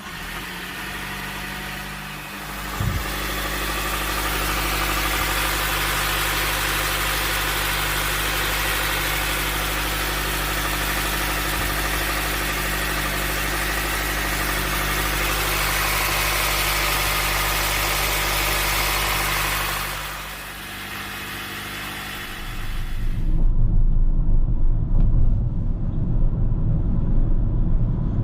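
Honda minivan engine running steadily at idle with the bonnet open, a steady hum with a loud hiss over it, and a single click about three seconds in. Near the end the sound gives way to a loud low rumble.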